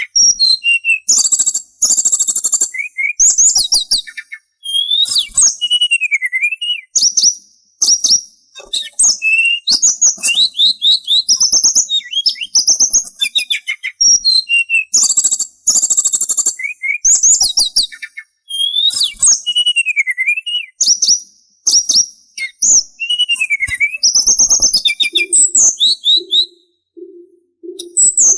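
Sulingan songbird singing a fast, varied song of high trills, chatters and whistles, with a few whistles that dip down and rise again. A low, evenly pulsed hooting tone joins under the song near the end.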